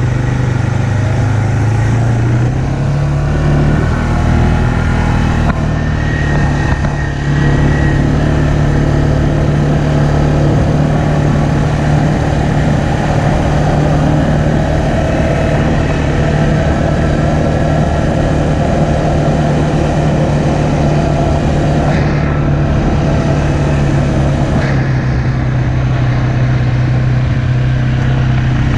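ATV engine running steadily, its pitch climbing over the first few seconds, then holding, and dropping slightly near the end.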